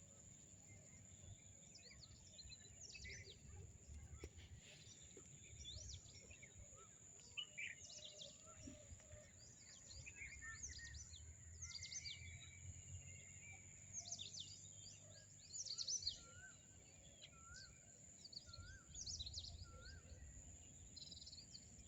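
Faint wild birdsong: many short, quick high chirps, over a steady high-pitched tone. In the second half a bird repeats a short, rising note about four times.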